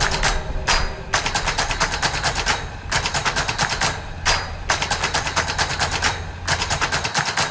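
Soundtrack music in an instrumental passage of rapid, driving drum hits, played in runs with brief breaks between them.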